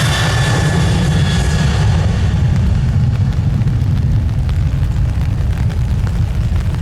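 Jet engines of a departing cargo airliner at takeoff thrust: a loud, deep rumble, with a high whine and hiss that fade over the first two seconds as the aircraft moves away.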